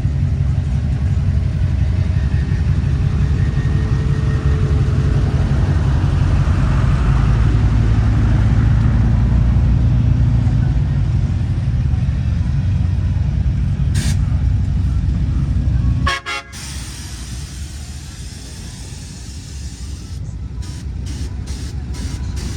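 Steady low rumble of motor vehicles, with a faint held tone a few seconds in. About three-quarters of the way through the sound drops out for a moment and comes back quieter.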